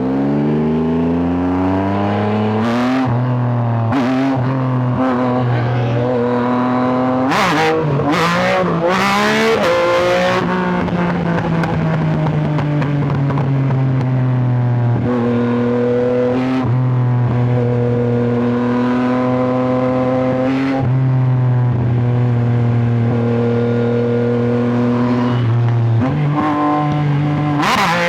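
Sport motorcycle engine, most likely the Yamaha R9's three-cylinder, pulling hard and shifting up through the gears, with pitch climbing and then stepping down at each shift. A cluster of sharp cracks and quick dips in pitch comes about a third of the way in, like downshifts with throttle blips, then the engine runs on more steadily with a few more gear changes.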